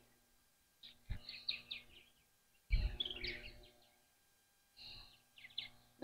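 Birds chirping in short, scattered calls, with two low thumps, about a second in and again near the middle, the second the louder.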